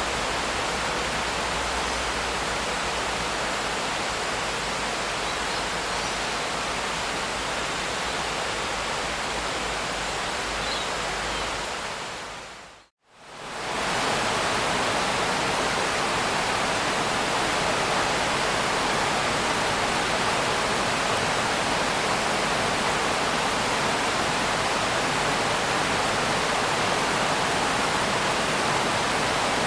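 Steady, dense rain with an even hiss. About 13 seconds in it fades out to a moment of silence, then fades back in with a slightly different texture.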